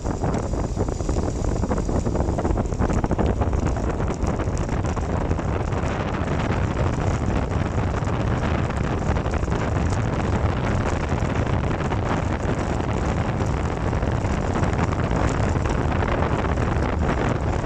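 Steady wind buffeting the microphone of a bicycle rolling downhill on a wet road, with a constant rushing hiss over it.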